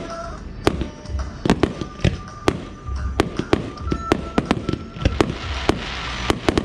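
Aerial fireworks bursting in quick, irregular succession: about fifteen sharp bangs, with a hissing crackle of glitter effects building near the end.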